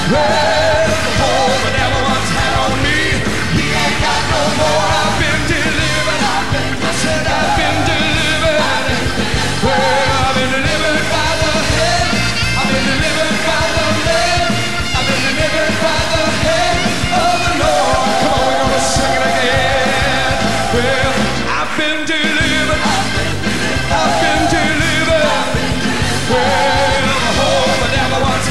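Live church worship music: a band playing an upbeat gospel song with voices singing over it.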